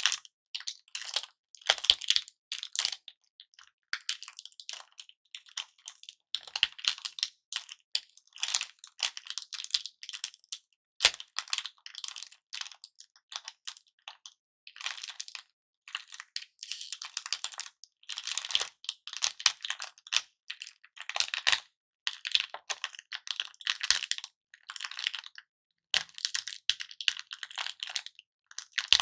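Hard-candy lollipops being handled close to the microphone: dense, irregular crackling and clicking in quick clusters with short pauses.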